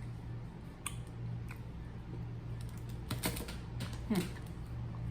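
Someone eating a stroopwafel: faint, scattered chewing clicks a few at a time, over a steady low hum.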